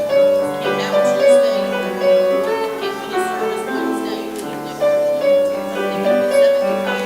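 Slow instrumental keyboard music: a melody moving note by note over held lower chords, each new note struck and then fading.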